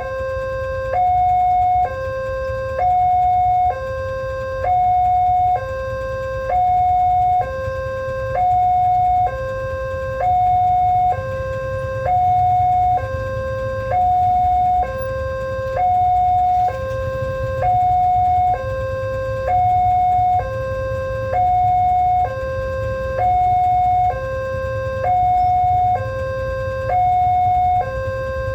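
Railway level crossing warning alarm sounding its electronic two-tone signal, alternating a lower and a higher tone, each held about a second, over and over at an even pace. A steady low rumble runs underneath.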